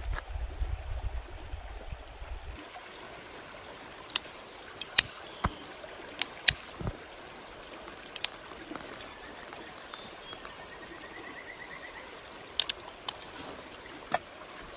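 Mountain stream water running steadily, with a handful of sharp clicks or knocks now and then, and a low rumble that stops about two and a half seconds in.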